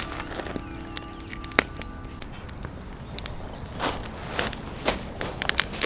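Scattered clicks and knocks of things being handled, with a cluster of louder crunching rustles about four seconds in.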